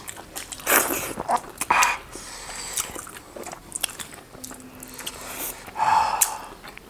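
Mouth-close eating sounds: biting and chewing meat lollipops, with irregular crunches and wet mouth clicks and a louder bite about six seconds in.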